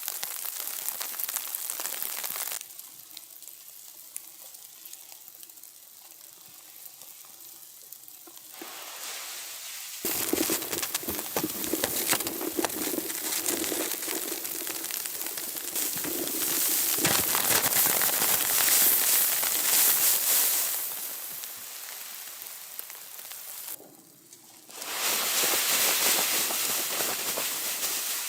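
Sizzling and crackling from cooking over a campfire: a dense hiss dotted with many small pops. It changes abruptly a few times, quieter for a stretch early on and loudest about two-thirds of the way through.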